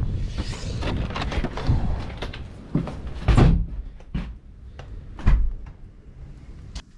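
A series of knocks, clatters and bumps of things being handled and set down, like a door or cupboard being worked, with two heavier thuds about three and five seconds in.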